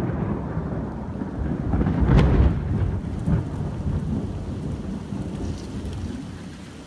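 Thunder rumbling, swelling to its loudest about two seconds in and slowly dying away, over the steady hiss of rain.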